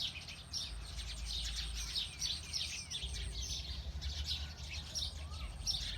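Several birds chirping: a dense run of short high chirps with a few quick down-slurred notes, over a steady low rumble.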